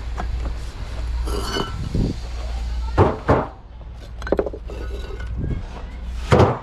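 Metallic clinks and a few sharp knocks over a steady low hum, the loudest knock near the end.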